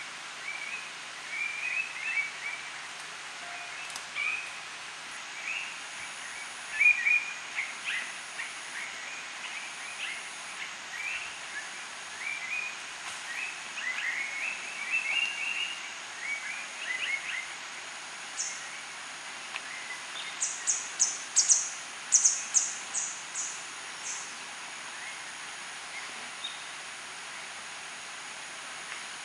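Several birds calling in rainforest, a busy run of short chirps and twitters, then a fast series of very high, sharp notes near the end. A thin steady high tone and an even hiss lie underneath.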